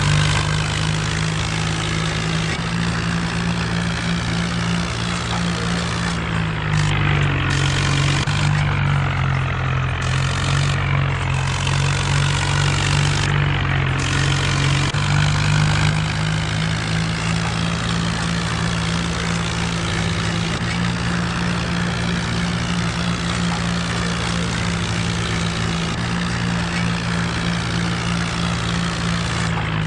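Mahindra Arjun 4x4 tractor's diesel engine running steadily while working a rotavator. Its pitch dips slightly about six or seven seconds in and comes back up around fifteen seconds.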